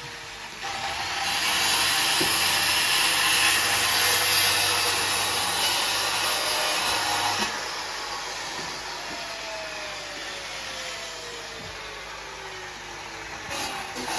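A power tool running with a loud rushing noise for the first several seconds, then quieter, with a slow falling whine near the end.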